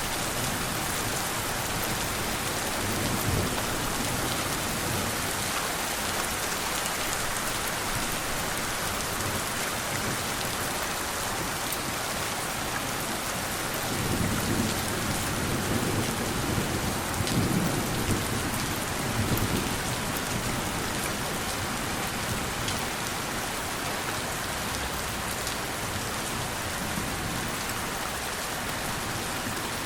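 Steady rain falling, with a low rumble of distant thunder swelling for several seconds about halfway through.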